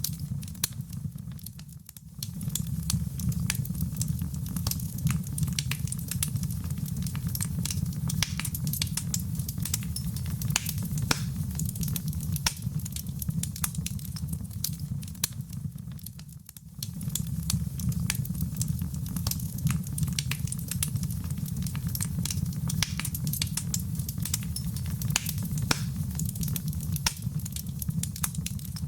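Wood fire burning in a fireplace: dense sharp crackles and pops over a steady low rumble. The sound dips briefly twice, about two seconds in and a little past halfway.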